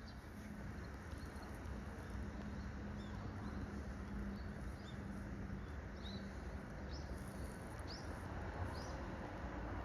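A bird giving a series of short, thin, high chirps, each a quick pitch glide, coming more often in the second half, over a steady background rush with a low hum.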